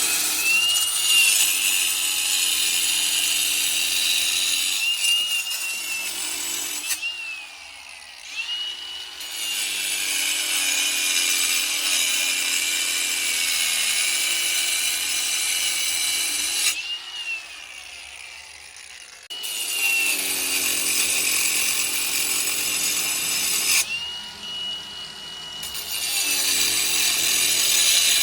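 Power saw cutting in four long runs, its motor whine rising as it starts each run and falling as it stops.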